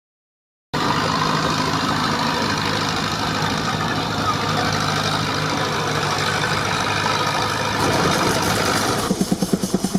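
Steam-powered sawmill driven by a 19-65 Uniflow Baker steam traction engine, running with a steady mechanical hum. From about nine seconds in, a rhythmic pulsing of roughly four beats a second comes in.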